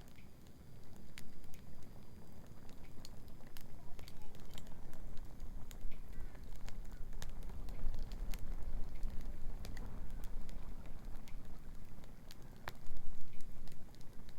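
Wood bonfire crackling, with irregular sharp pops from the burning wood, one of the strongest near the end, over a steady low rumble.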